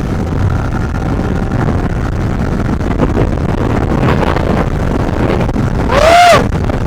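Motorcycle riding along, with steady engine rumble and wind noise. About six seconds in, a short loud pitched sound rises and then falls in pitch.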